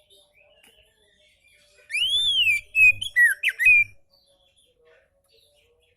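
Oriental magpie-robin (kacer) singing one short phrase, starting about two seconds in: a loud whistle that rises and falls, then a few quick gliding notes, lasting about two seconds.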